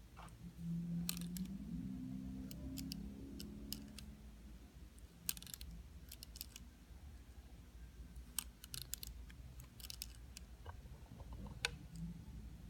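DJI Phantom 4 camera gimbal making sharp clicks in irregular clusters as it tilts downward, a fault in the gimbal. A low hum sounds in the first few seconds.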